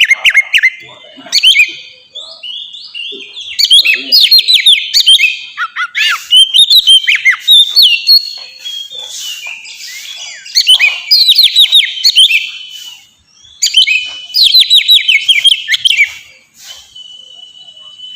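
Oriental magpie-robin (kacer) singing freely in full song (ngeplong). Its phrases are runs of quick, sharply falling whistled notes, separated by short pauses.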